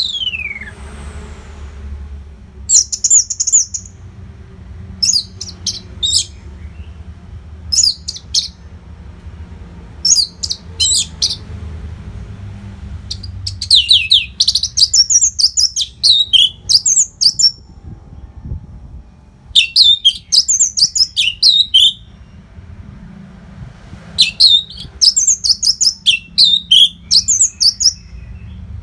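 Orange-headed thrush (anis merah) singing: bursts of quick, varied high phrases come every second or two, broken by short pauses. A faint low hum runs underneath.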